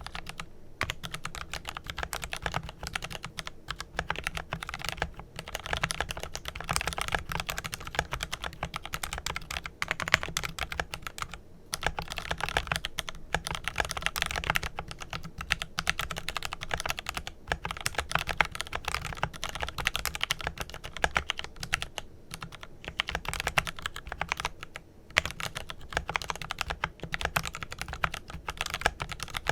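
Continuous fast typing on a Glorious GMMK Pro mechanical keyboard with lubed Kailh Pro Purple tactile switches and GBPT keycaps: a dense run of key clicks, with a few brief pauses.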